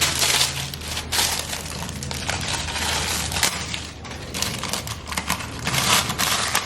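Irregular crinkling and crunching handling noises, in a dense run of short strokes, over a steady low hum.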